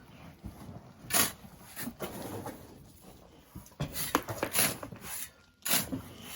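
Irregular scrapes and knocks of sand being shovelled by hand into a truck, with a few sharp strikes about a second in and again between four and six seconds.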